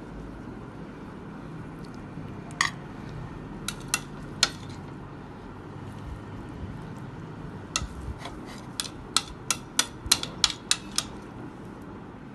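Metal utensils clinking against a plate during plating: a few scattered clinks, then a quicker run of about a dozen sharp clinks in the second half.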